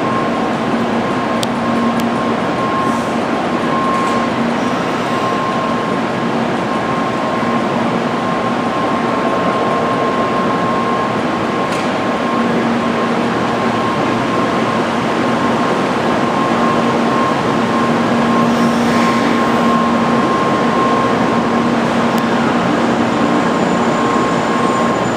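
Steady hum and hiss of a stabled 800 Series Shinkansen train's running equipment at the platform, with a faint steady whine on top.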